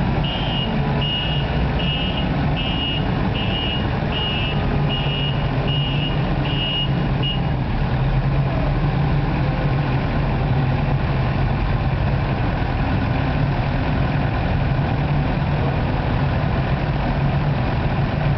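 A Case loader's engine running steadily, its reversing alarm beeping about one and a half times a second until it stops about seven seconds in, as the machine backs up.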